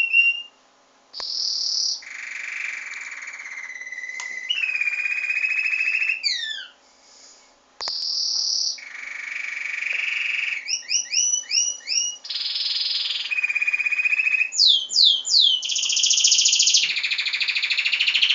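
Pet bird singing a long song: high trills of rapidly repeated notes held for a second or two each, alternating with short runs of quick downward-sweeping whistles. The song pauses briefly twice.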